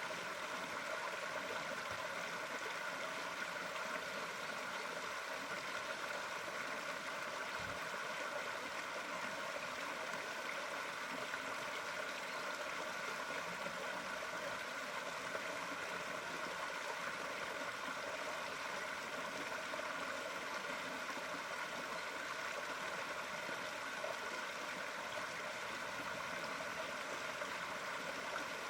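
Steady running water, an even continuous rush with no breaks or changes.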